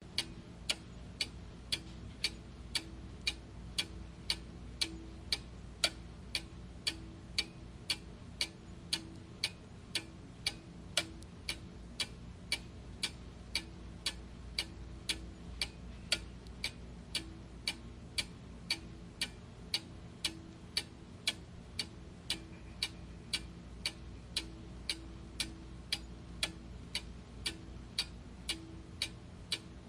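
Clock ticking steadily, about two evenly spaced ticks a second, over a faint steady low hum.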